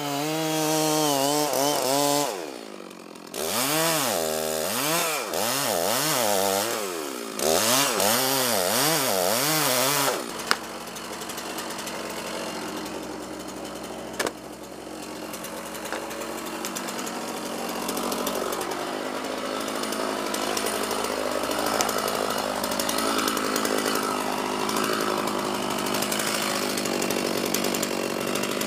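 Chainsaw revving up and down in quick surges, cutting wood. About ten seconds in, the sound changes suddenly to a denser, steady machine noise with no clear pitch.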